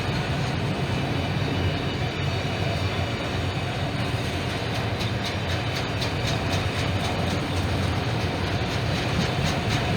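Norfolk Southern train rolling past with a steady low rumble. Wheel clicks over the rail joints come through more plainly in the second half.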